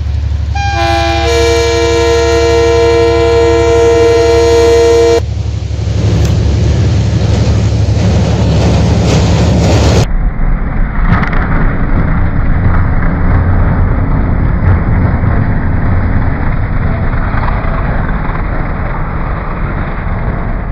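Diesel locomotive's air horn sounding one long blast of several tones together, cutting off about five seconds in, followed by the locomotive's heavy engine rumble as it approaches. From about ten seconds in, passenger coaches roll past with a steady rumble and rattle of wheels on rail.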